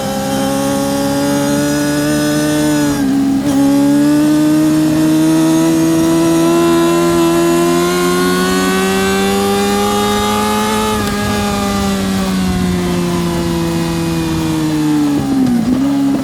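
Yamaha R6 (RJ03) inline-four engine at racing speed, heard onboard. About three seconds in the pitch dips briefly, then climbs steadily for several seconds as the bike pulls hard, eases down slowly, and dips sharply once more near the end.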